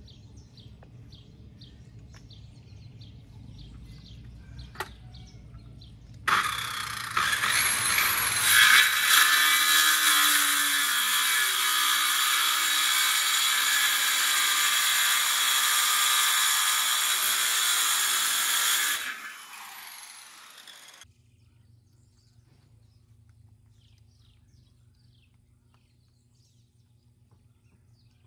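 Electric power tool starting suddenly and running steadily at full speed for about thirteen seconds, then winding down, most likely while cutting the wooden board. Birds chirp faintly before it starts.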